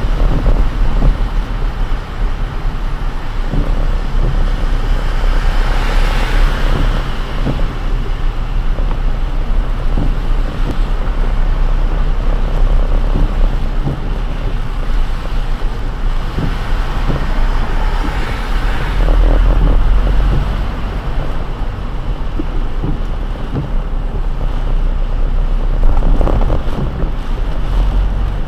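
Car driving on a rain-soaked road: a steady low rumble of road noise under the hiss of tyres on wet tarmac, swelling a few times.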